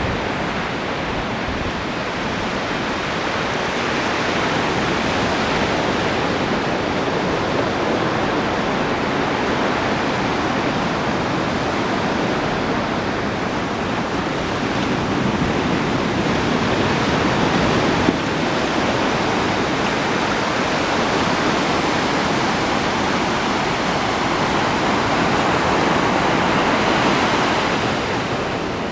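Ocean surf washing onto a beach: a continuous rushing wash that slowly swells and eases, loudest shortly before the end.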